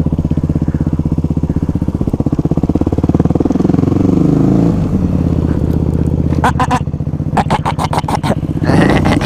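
Supermoto motorcycle engine running, revving up about three seconds in and then easing off, with a quick run of sharp crackles near two-thirds of the way through.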